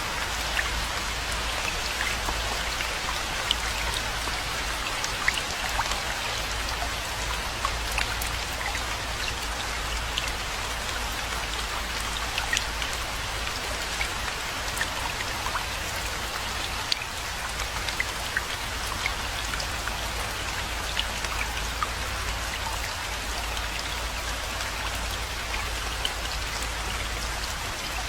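Steady rainfall, with many individual drops ticking sharply on surfaces and a steady low rumble underneath.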